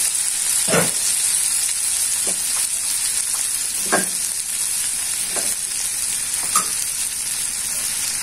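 Oil sizzling steadily in a wok under halved tomatoes, shallots, garlic and bird's-eye chillies, with a few short pops now and then.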